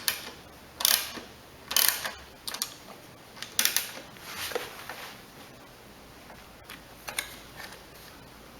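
Socket ratchet wrench clicking in about six short bursts of strokes, tightening the carburetor's mounting bolts, then a few fainter clicks near the end.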